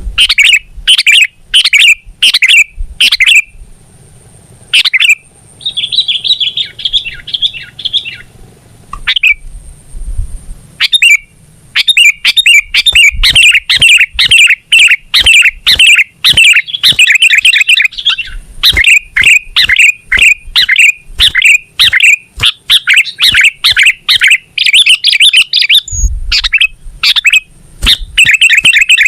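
Sooty-headed bulbul (kutilang) singing: loud, clear chirping notes repeated in short series, breaking into dense, rapid chattering about twelve seconds in.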